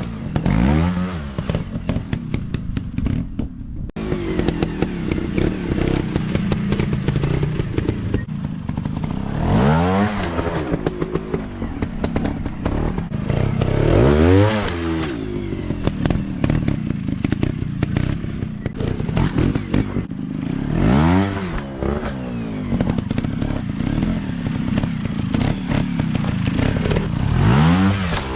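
Small dirt bike engines running, revved up hard and let back down several times, each rev a quick rise and fall in pitch, with the engine running unevenly at lower revs in between.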